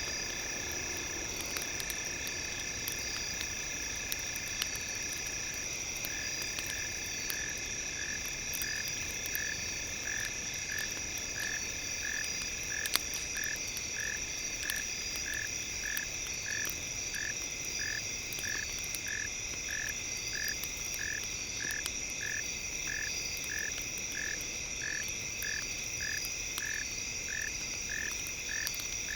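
Campfire crackling with scattered sharp pops, under a bed of steady high synthesized tones. From about six seconds in, one of the tones pulses evenly, somewhat under two pulses a second.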